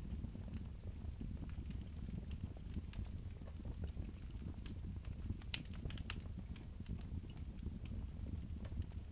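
Wood fire crackling in a fireplace: irregular sharp pops and snaps over a steady low rumble, with a brief flurry of louder pops about halfway through.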